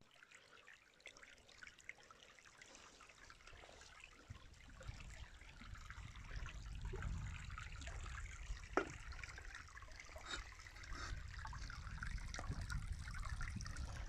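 A small trickle of water running, faint. A low rumble builds from about four seconds in, and there is a single sharp click near nine seconds.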